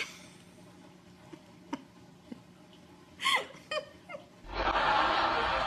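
A cat giving a few short, falling mews, after a few faint clicks. From about four and a half seconds in, a loud steady rushing noise takes over.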